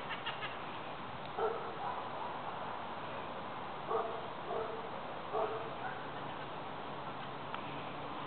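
Wild green-cheeked (red-crowned) Amazon parrots calling: short harsh calls, mostly in pairs, a few seconds apart, over steady background noise.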